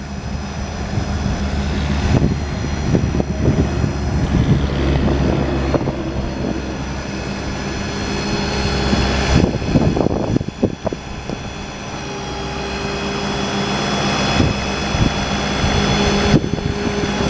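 Mechanics-truck crane being worked on its hydraulics: a steady drone with a thin high whine whose level shifts several times as crane functions start and stop, with a few short knocks.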